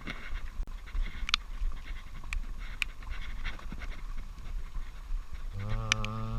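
A man breathing hard and fast in the cold, over a low rumble of wind on the microphone, with a few sharp clicks. About five and a half seconds in, a low, steady hum sets in and holds for a couple of seconds.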